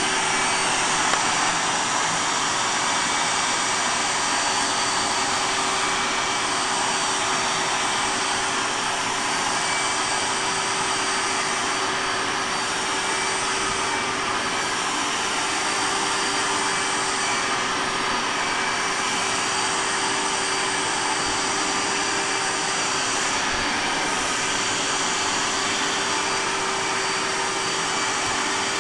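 Hoover Triple Duty 16-gallon wet/dry shop vac running steadily at full suction. It is a noisy, steady whine and rush of air with a constant hum beneath.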